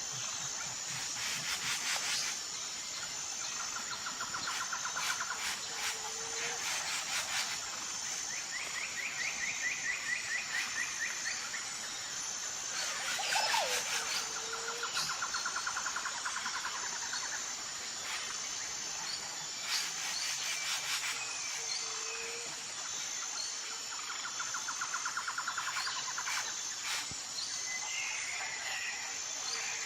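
Tropical forest ambience: a steady high insect drone, with bird and insect trills of two to three seconds coming in several times. A short low call repeats every seven or eight seconds.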